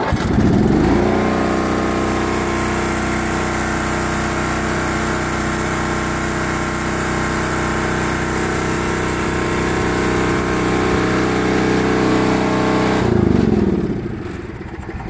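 8 hp Briggs & Stratton single-cylinder engine of a John Deere S82 riding mower starting, catching at once and coming up to a steady run, with a freshly rebuilt carburetor. It runs evenly for about thirteen seconds, then slows and dies away near the end as it is shut off.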